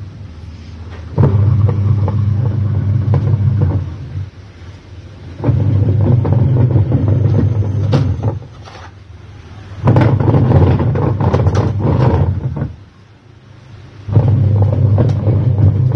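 Semi-automatic washing machine's wash-tub agitator running with a low, rattling rumble ("dad-dad"), in four runs of about three seconds with short pauses between as it stops and reverses. The noise is the sign of play in the wash gearbox shaft and pulley: a worn gearbox.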